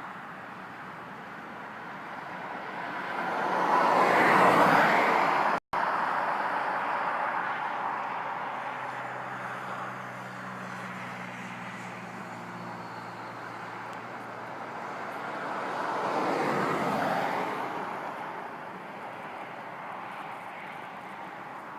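Two vehicles passing on a road, each a swell of tyre and engine noise that rises and fades, the first about four seconds in and the louder, the second about sixteen seconds in. A faint low engine hum sits between them.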